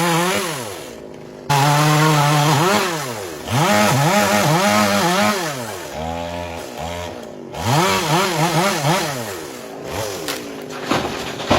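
Two-stroke chainsaw engine revving up and down over and over, its pitch rising and falling with each blip of the throttle; about a second and a half in it jumps suddenly to full speed, and it runs lower near the end.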